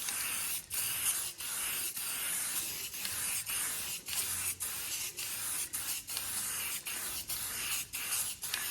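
Aerosol spray paint can hissing as a coat of paint is sprayed on, in a run of passes with brief breaks about every half second or so.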